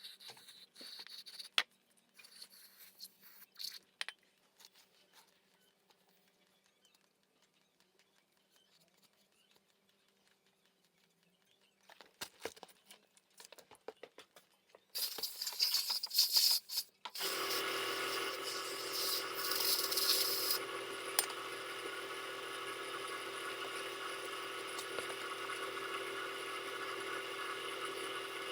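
Scattered light clicks and clatter of small metal parts being handled, then a short loud hiss, and about seventeen seconds in a machine starts up and runs steadily with an even hum.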